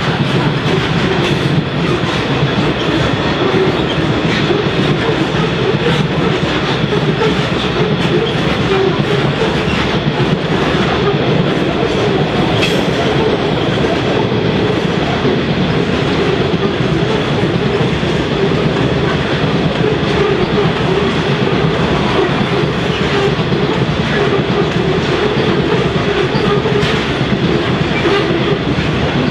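Coal train wagons rolling steadily past on the rails, a continuous, even rumble of wheels on track.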